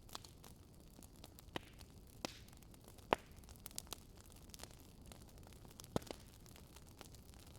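Fireplace fire crackling: scattered sharp pops and snaps over a faint steady hiss, the loudest pop about three seconds in and another near six seconds.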